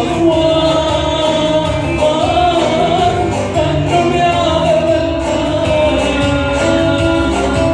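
Live performance of a Sudanese Christian hymn: sung vocals carrying long held notes over instrumental accompaniment with a steady percussive beat.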